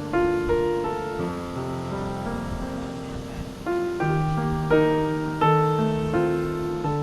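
Background piano music: gentle chords, one struck note after another, each ringing on and fading.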